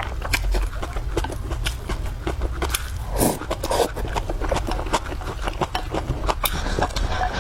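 Close-miked eating: irregular crisp clicks of biting and chewing food, with a brief louder rush of noise about three seconds in.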